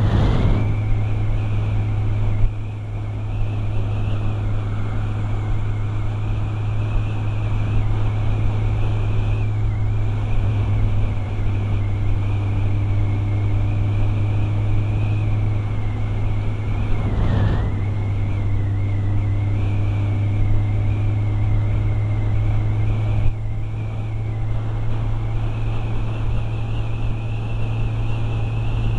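Motorcycle engine running steadily at riding speed, with wind rushing past. A thin high whine wavers along with it and dips briefly twice, once near the start and once a little past halfway.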